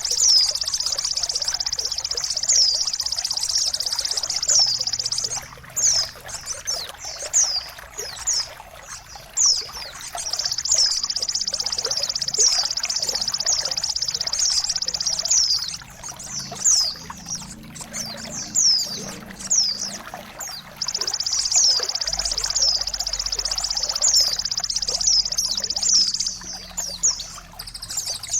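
Songbird masteran recording over trickling water: a bird repeats short, high, down-slurred whistles about twice a second. A high, steady trill comes and goes in stretches of about five seconds.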